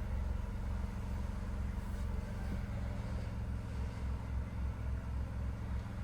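Mitsubishi Delica Mini (B38A) 660 cc three-cylinder engine idling steadily through a Wills Win racing muffler, a low, even exhaust note.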